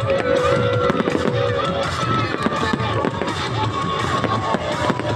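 Fireworks display: many shells bursting and crackling in quick succession, over music with long held notes played from an outdoor loudspeaker.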